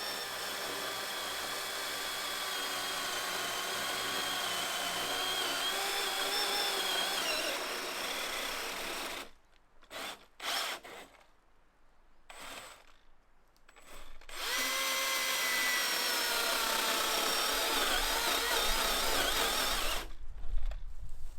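Handheld electric power tool running under load in two long runs, its motor whine sagging and wavering in pitch. About nine seconds in it stops for some five seconds, with a couple of short blips, then runs again and cuts off near the end.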